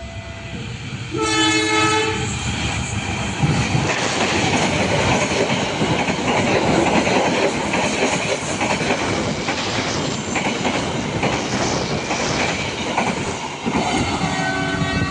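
A train sounds its horn, a short chord about a second in, then passes at close range with a loud, steady rumble and clatter of wheels on the rails. A second horn call comes near the end.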